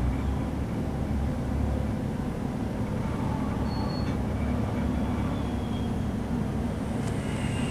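A British Rail Class 185 diesel multiple unit heard from inside the carriage while under way: a steady low rumble of its diesel engine and running gear, with a few faint, brief high squeals.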